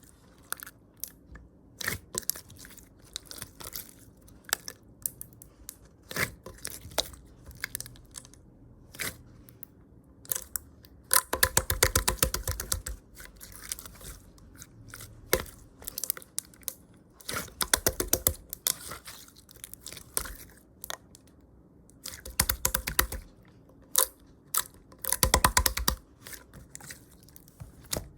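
Slime being pressed, folded and stretched by hand, giving off sticky crackles and clicks, with several bursts of rapid popping about every few seconds.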